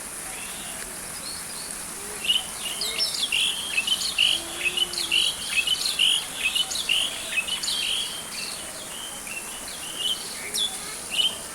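A bird chirping in a quick series of short, repeated notes that begins about two seconds in and thins out, with a couple more chirps near the end, over a steady high insect drone.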